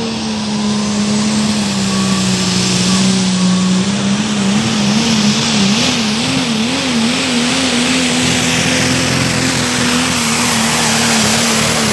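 A pulling vehicle's engine running hard at high, steady revs over a loud rushing hiss, its pitch wavering up and down for a few seconds midway before steadying again.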